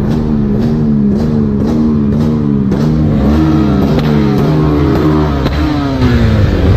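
Honda XR250 Tornado's single-cylinder four-stroke engine revved hard in quick repeated blips up to the rev limiter, the pitch climbing and dropping a few times a second. It gets louder and settles onto a deeper steady note about six seconds in.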